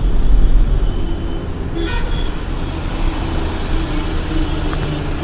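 Road traffic noise with a steady low rumble, and a short vehicle horn toot a little under two seconds in; another toot starts right at the end.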